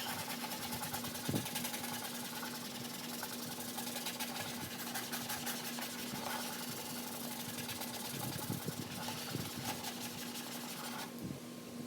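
Rapid scrubbing of a plastic light cover by hand, a fast rubbing hiss that stops about eleven seconds in, over a steady low hum.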